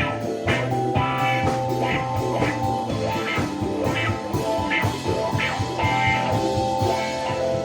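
Band playing rock music: guitar notes over drums keeping a steady beat of about two strokes a second.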